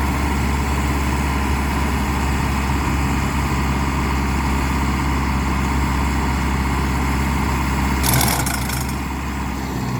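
Mahindra tractor's diesel engine running steadily. A short rush of noise comes about eight seconds in, and the engine is a little quieter after it.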